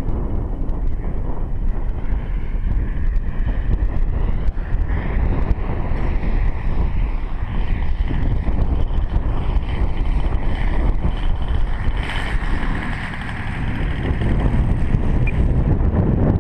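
The 111cc engine of a radio-controlled Sbach aerobatic plane in flight, its pitch drifting up and down as the plane manoeuvres and passes. Heavy wind noise on the microphone is the loudest sound.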